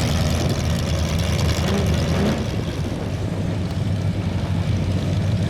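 A mud truck's engine running steadily with a deep, even rumble.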